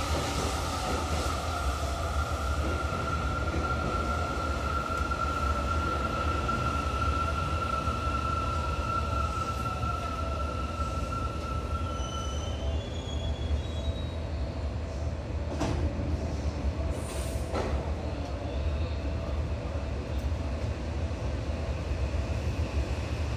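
Seibu 2000 series electric train running: a steady low rumble with a high whine that stops about halfway through, and two short knocks later on.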